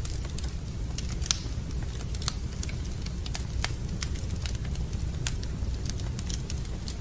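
Wood fire in a fireplace crackling, with irregular sharp pops, the loudest about a second in, over a steady low rumble.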